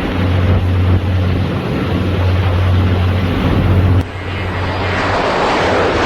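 A ship's engine droning steadily under loud wind and sea noise in a storm. About four seconds in the sound cuts to a different recording, where a rushing wash of wind and breaking waves builds up.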